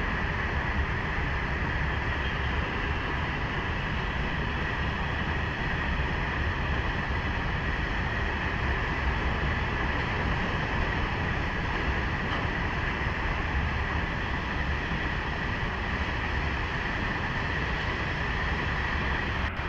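Long train of empty open freight wagons rolling past on rails: steady wheel noise with a constant high whine over it.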